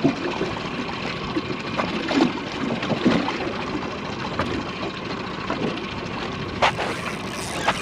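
Wind buffeting the microphone over water lapping against a boat, with two sharp knocks near the end.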